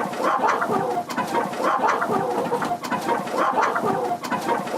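A large flock of young improved Kienyeji hens clucking continuously, many calls overlapping.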